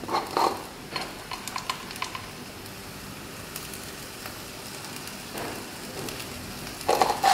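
Wet rice vermicelli frying in a wok with a steady soft sizzle. There are a few light clicks in the first couple of seconds and a brief louder noise near the end.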